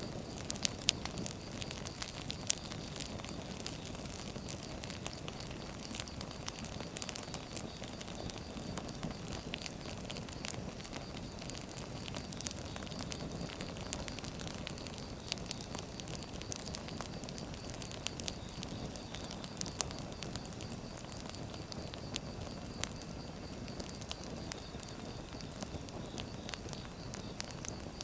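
Firewood burning, with a steady low rush and frequent irregular sharp crackles and pops.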